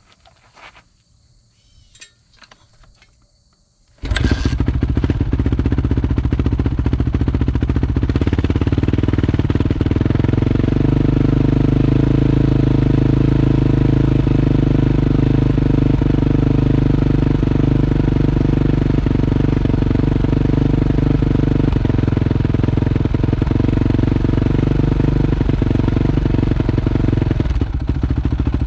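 Honda CRF450R's single-cylinder four-stroke engine starting: after a few faint clicks it fires suddenly about four seconds in, then runs steadily and loudly at idle.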